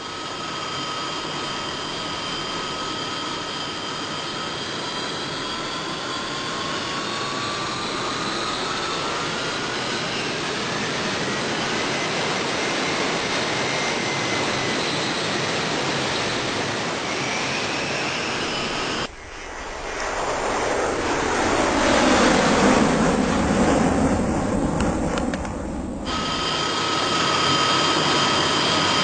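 Jet airliner engines running, laid in as a sound effect: a turbine whine with several high, steady whistling tones and slow pitch glides, as during engine start and spool-up. About two-thirds of the way in it cuts to a louder, even rush of engine noise for about seven seconds, then the whistling whine returns.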